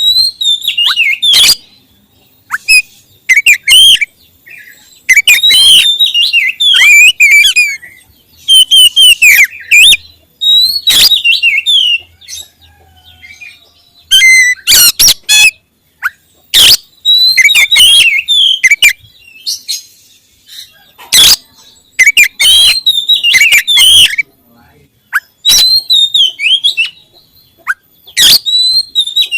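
Oriental magpie-robin (kacer) singing loudly in bursts of rapid, varied whistled phrases broken by short pauses, with sharp clicks among the notes.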